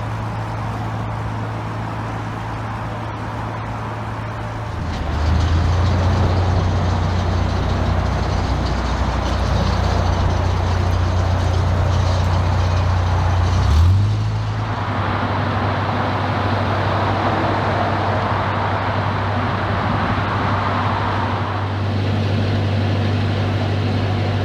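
Narrowboat diesel engine running under way over a steady hiss of wind. Its note drops and grows louder about five seconds in, then rises quickly again about fourteen seconds in.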